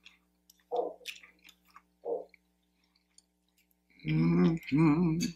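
Close-up eating sounds: soft chewing of scrambled eggs and potatoes with faint scattered ticks, then near the end two short pitched hums through a full mouth, the loudest sound here.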